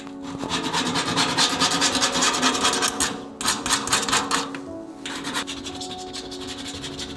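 Rapid, rhythmic rasping strokes of a hand tool scraping a hard surface, many strokes a second, pausing briefly about three seconds in and fading out about five seconds in; background music plays underneath.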